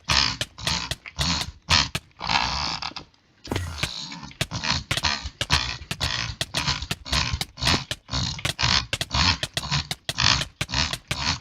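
A person making rapid, irregular mouth clicks, several a second, mixed with rasping, grunting vocal noises.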